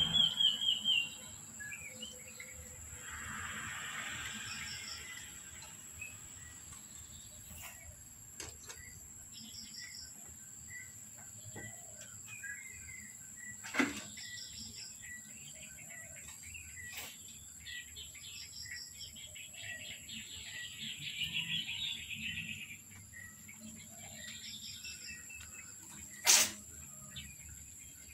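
Outdoor background of birds chirping and calling, with a steady thin high-pitched tone and a few sharp clicks, the loudest about 26 seconds in.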